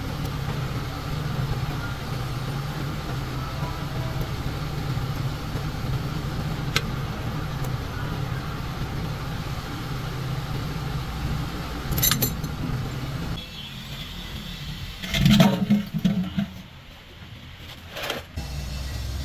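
A vehicle engine running steadily with a low hum, which cuts out about two-thirds of the way through. Several sharp knocks follow, the loudest a little after it stops.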